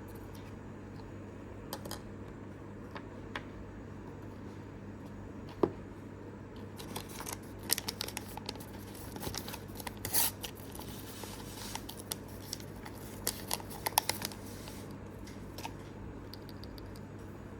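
Unboxing of mini toys: scattered sharp clicks, snips and short crinkles of small plastic pieces and packaging being handled, busiest in the middle, over a steady low hum.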